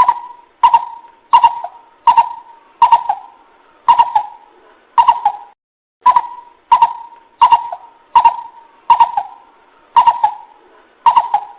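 Coucal (bubut) lure call: a long run of hollow hoots, about one every 0.7 seconds, each beginning with a sharp click, with a short break about halfway through.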